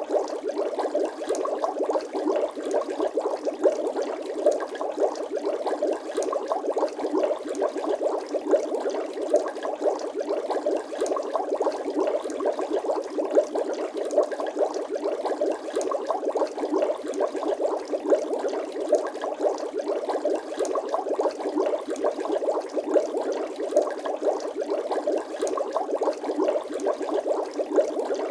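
Continuous bubbling water sound effect: a dense, unbroken stream of small bubble pops and gurgles, steady throughout and thin, with no bass.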